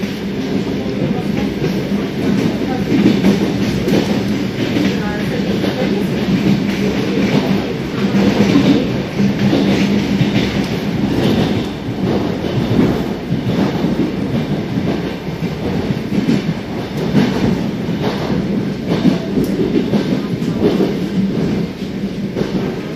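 Suburban electric train running, heard from inside the carriage: a steady rumble of wheels on the rails with clickety-clack over the rail joints. A steady low hum runs under it and fades about halfway through.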